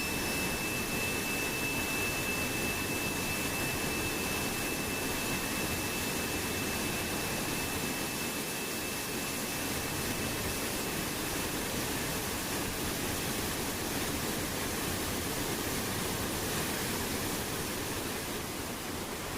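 Steady rush of running water, with the high ring of a tingsha, struck just before, fading away over the first several seconds.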